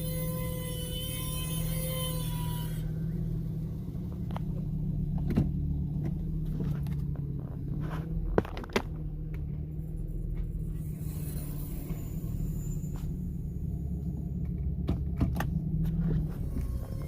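A 2008 Honda Accord EX-L making a steady low rumbling drone while reversing, with scattered sharp clicks and knocks. The owner suspects worn brake pads.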